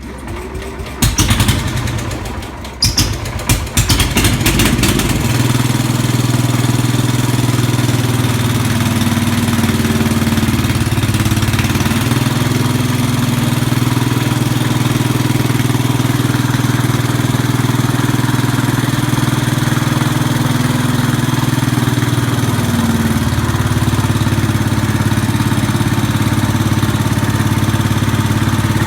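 Cold start of a 1967 Sears Suburban 10 garden tractor's Tecumseh engine, after it has sat for at least two months. It turns over unevenly for about four seconds, catches, then runs steadily.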